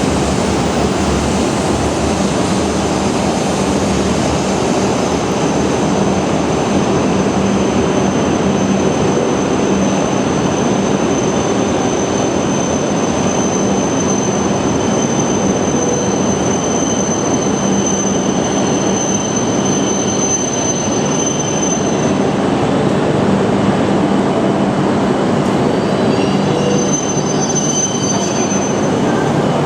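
A Shinkansen train moving along the platform, making a loud, steady running noise. Through it runs a thin high-pitched whine that stops about two-thirds of the way through, and other high tones come in near the end.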